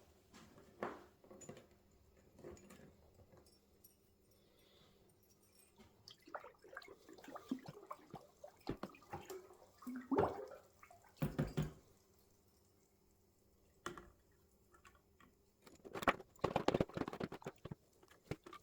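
Small metal bike hardware being handled in liquid while being prepared for zinc replating: irregular splashes, drips and clinks, busiest about halfway through and near the end, over a faint steady hum.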